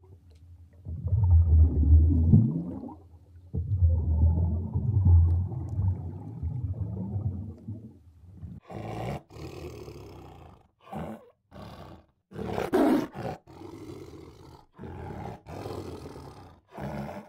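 A big cat growling and roaring: two long, deep, rumbling roars in the first six seconds, then a string of short, choppy snarls broken by brief silences.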